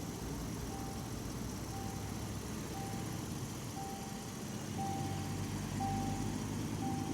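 A 2018 Land Rover Discovery 5's 3.0-litre supercharged V6 idling, with the car's warning chime beeping a single steady tone about once a second.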